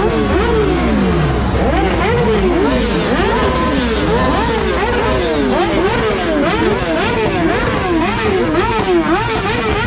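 Several engines being revved over and over, their pitch sweeping up and down repeatedly and overlapping, over a rumbling low idle.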